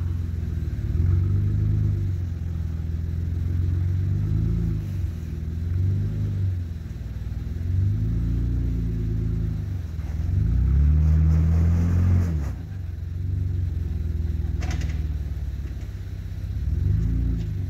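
Off-road 4x4 engine crawling over a rocky obstacle, revving up and easing off again and again in slow surges. A single sharp knock comes near the end.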